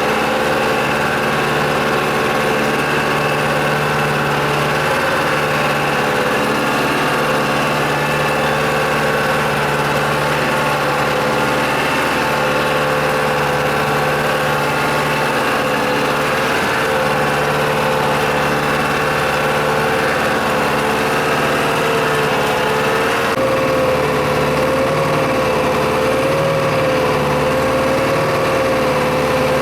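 Diesel engine of a farm machine running steadily, with a steady whine that starts wavering slightly in pitch a little past the middle.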